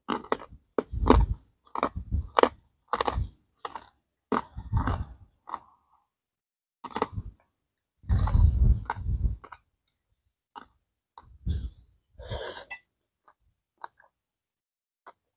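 Close-miked chewing of a mouthful of som tam (spicy papaya salad with rice noodles and apple snails): a quick run of wet chewing and crunching about two strokes a second, then two longer, louder bursts of mouth noise, thinning to a few faint clicks near the end.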